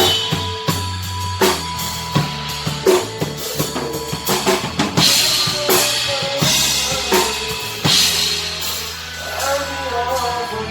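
Rock band jamming: a drum kit with bass drum and snare hits, and an electric bass holding long low notes underneath.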